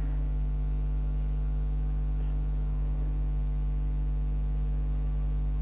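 Steady electrical mains hum with its overtones, unchanging throughout.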